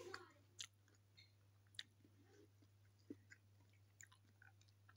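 Faint chewing of a mouthful of food, with a few soft, sharp clicks about a second apart, over a steady low hum.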